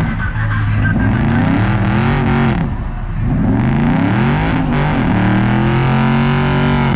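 Swapped turbocharged 4G63 four-cylinder of a Mitsubishi 3000GT revving hard during a burnout. The pitch climbs and falls about three times.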